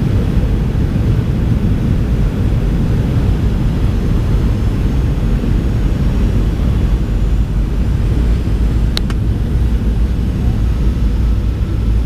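Delta Boeing 737 in flight, a steady low rumble of engine and airflow noise that does not change. About nine seconds in there is one brief sharp click.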